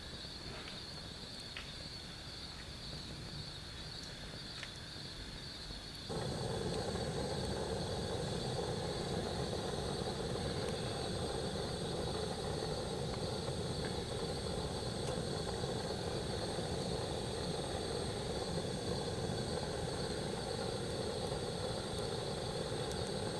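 Night insects chirring steadily in a high, even band. About six seconds in, a steady low rushing noise joins abruptly and continues.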